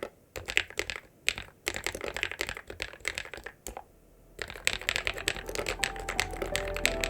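Typing on a ZIYOULANG K68 mechanical keyboard fitted with lubed KTT Peach Lemon linear switches and Poron and Thinsulate foam: quick runs of keystrokes broken by short pauses. Background music fades in over the second half.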